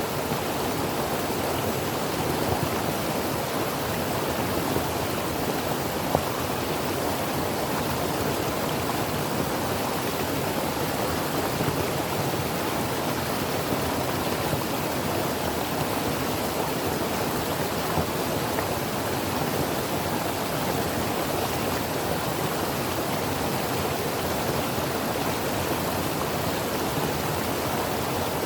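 Creek water flowing and splashing over rocks in a steady rush, with a few faint drips and splashes standing out.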